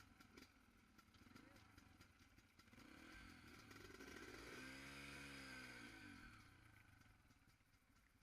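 Faint dirt bike engine that swells and rises in pitch then falls away again around the middle, as it revs or passes.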